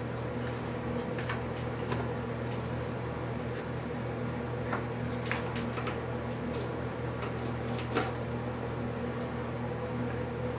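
Steady low electrical hum with a few light clicks and taps scattered through it.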